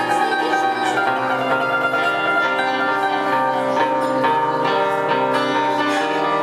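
Instrumental music from a live band: held chords under a line of short melodic notes.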